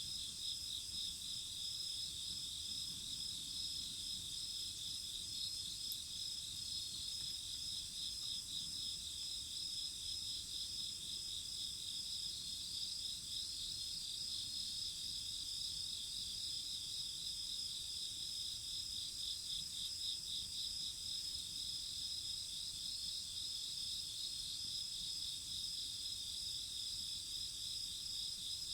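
A steady chorus of chirping insects, with a fast pulsing trill layered over several continuous high-pitched tones.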